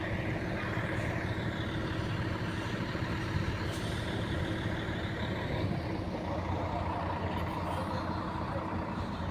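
Heavy diesel engine running steadily at a low, even rumble.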